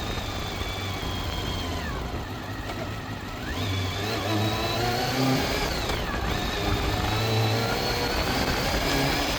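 Honda CBR400RR's inline-four engine under way, its high pitch falling as the revs drop and then climbing sharply again, twice.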